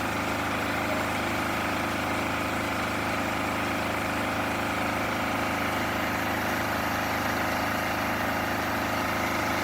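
An engine idling steadily at an even pitch, with no revving or cutting.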